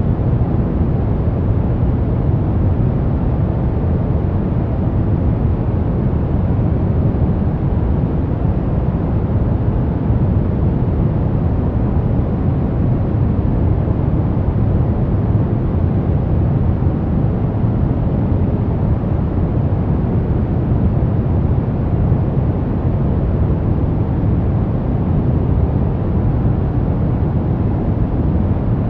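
Steady, even noise, weighted toward the low end, with no breaks, beats or separate events.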